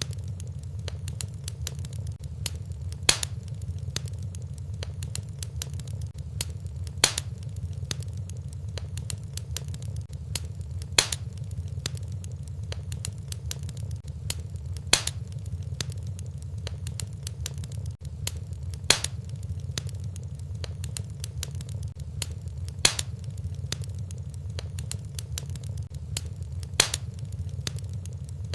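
Wood fire crackling in a fireplace over a steady low rumble, with many small crackles and a sharper pop about every four seconds.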